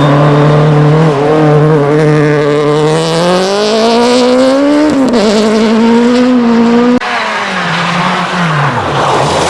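Rally car engine at full throttle, its pitch climbing as it pulls, with a gear change about five seconds in. After an abrupt cut at about seven seconds a quieter car engine drops in pitch as it goes by.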